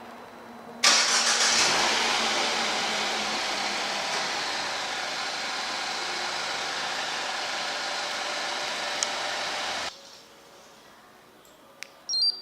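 MINI Paceman (R61) engine starting about a second in, loudest at the start, then running and settling over several seconds before cutting off abruptly about ten seconds in. A click and a short, sharp, high-pitched blip follow near the end.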